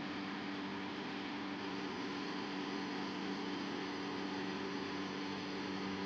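A steady mechanical hum with two low tones over an even hiss, unchanging throughout.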